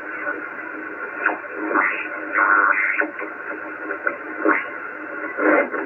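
Radio receiver hiss cut off above about 3 kHz. Short bursts of faint, garbled voice transmissions come through now and then, the loudest between about two and three seconds in and again near the end.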